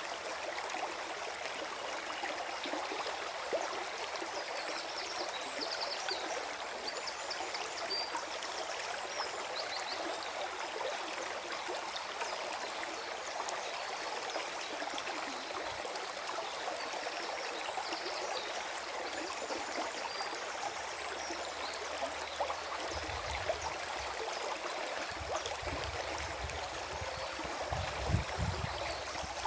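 Small forest stream gurgling and trickling steadily, with a few low rumbling pulses near the end.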